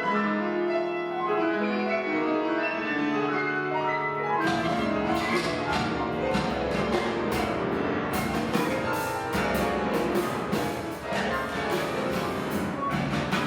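Free-improvised ensemble music: sustained pitched notes, piano among them, then about four and a half seconds in drums and percussion enter with rapid strikes over the continuing notes.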